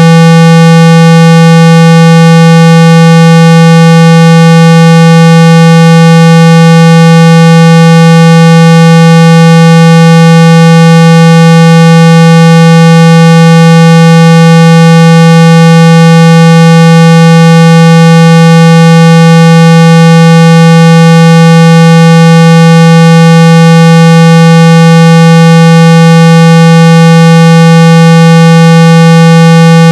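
Continuous, very loud 165 Hz tone with a buzzy edge from its overtones, held steady without any change: a speaker-cleaning tone used to vibrate water and dust out of a phone's speaker.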